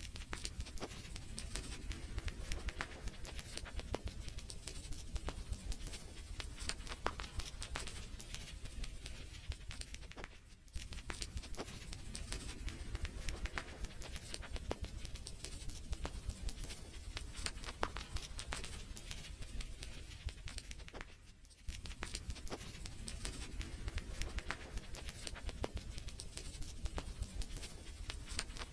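Wood fire crackling in a fireplace: dense, irregular pops and snaps over a low rumble, with two brief dips in level, about a third and three quarters of the way through.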